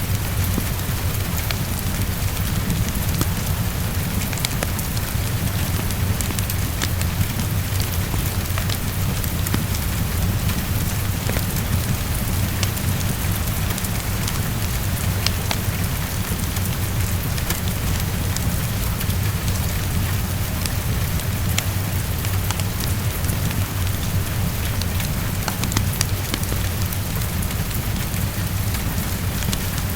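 Heavy rain falling steadily against a window, with a wood fire crackling in scattered small clicks, over a steady low rumble.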